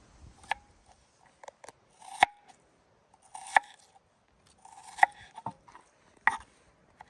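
Knife slicing vegetables on a cutting board: a short scrape and then a sharp tap of the blade on the board, about five times at a slow, even pace, with lighter clicks in between.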